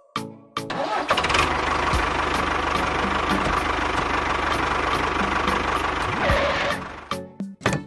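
An engine running steadily, starting about a second in and stopping shortly before the end.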